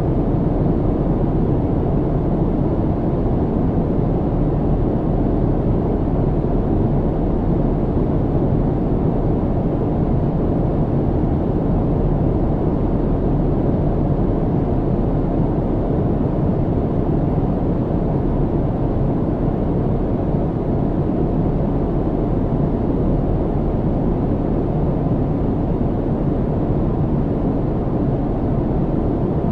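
Steady low rumble of a jet airliner cabin in cruise: engine and airflow noise, deep and even, with little high-end hiss.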